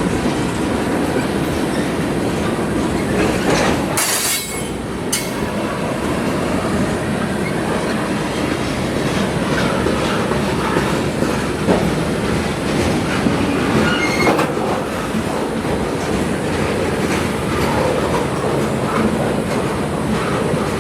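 Freight train cars rolling past, wheels clattering over the rail joints. There is a brief high hiss about four seconds in and a short wheel squeal later on.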